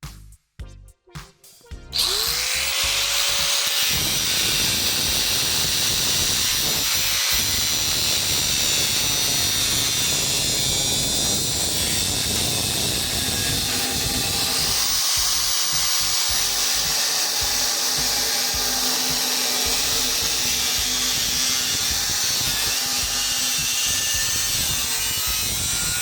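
A power tool spins up about two seconds in, then runs steadily with a loud, hissing, high-pitched noise as it cuts into the steel tank of a gas water heater.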